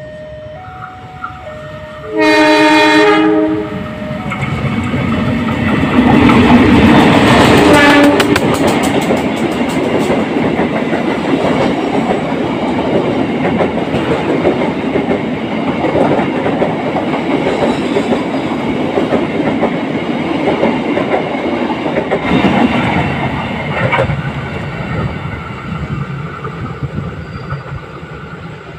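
Kahuripan passenger train's diesel locomotive sounds its horn once, for about a second, about two seconds in. The train then runs through the station at speed: a rising rumble with rapid clickety-clack of wheels over the rail joints, loudest about six to eight seconds in. A steady rolling rumble of the passing carriages follows and fades near the end.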